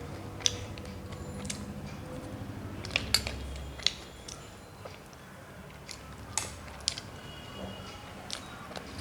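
Someone eating a meal of rice and fried fish: chewing and mouth sounds, with a few sharp clicks and taps against the plate.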